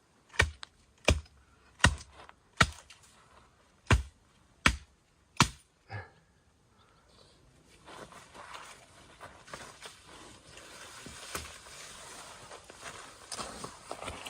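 Seven sharp chopping strikes on wood, about one every three-quarters of a second, with a short pause after the fourth. After that come several seconds of irregular rustling and crunching, as of branches or forest litter being handled.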